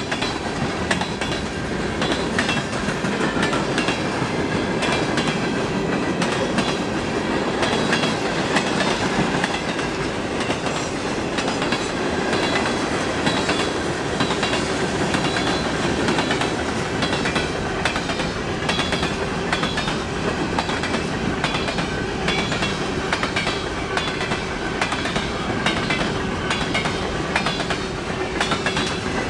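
A train rolling steadily past, its wheels clacking over the rail joints.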